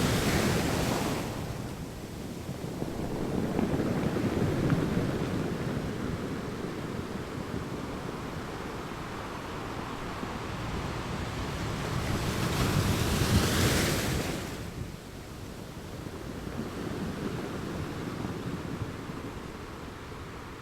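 Ocean waves breaking and washing on the shore. Two louder breaks, one right at the start and a bigger one about thirteen seconds in, with a lower rolling wash between.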